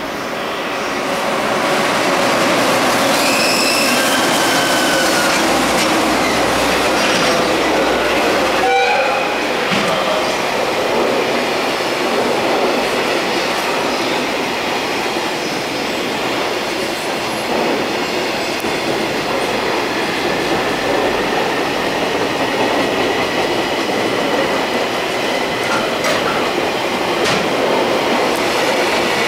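An EF210 electric freight locomotive passes at speed, followed by a long string of container wagons rolling by. The level builds over the first two seconds and then holds as a steady, loud rush of wheels on rail.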